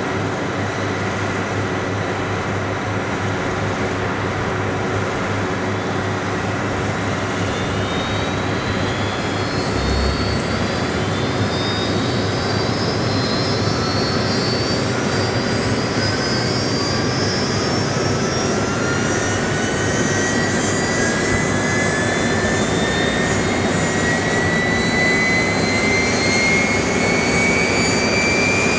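Kawasaki T-4 jet engines starting up: a steady rush of running noise, with a turbine whine that begins rising about eight seconds in and keeps climbing in pitch as the engines spool up.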